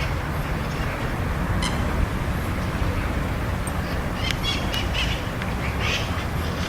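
Short, high bird calls, a few scattered and then a quick run of chirps about four to six seconds in, over a steady low rumble.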